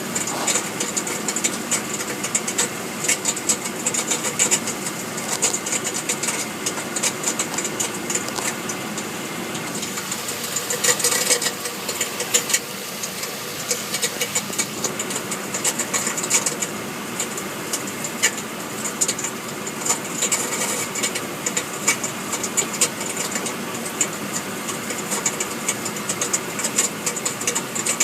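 Rapid, continuous rattling under a Hummer with the engine running, a noise that comes only when it is in gear and held on the brake. The owner suspects the torque converter, transmission or differential.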